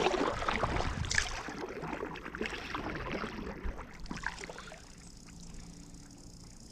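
Water splashing and sloshing around a kayak, with a sharp knock at the start, then a crackling, trickling wash that dies down after about four seconds.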